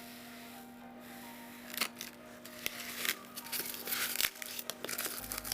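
A faint steady hum, then from about two seconds in, irregular crackling and squeaking of polystyrene foam being handled and rubbed.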